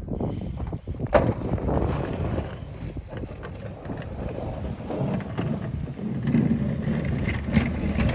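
A motor vehicle engine running, its low hum steadying and growing a little louder from about five seconds in, with wind buffeting the microphone and a sharp click about a second in.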